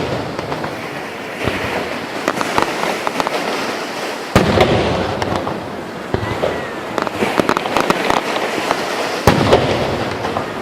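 Fireworks going off: steady crackling and popping, with two loud booms, one about four seconds in and another about nine seconds in, each trailing off into more crackle.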